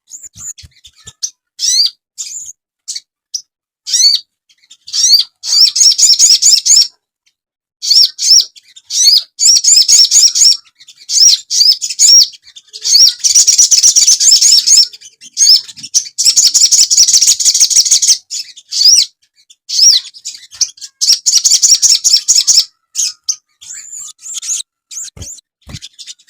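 Sogon bird song, loud and high-pitched: rapid twittering phrases and repeated slurred chirps in bursts lasting a few seconds, with short pauses between them.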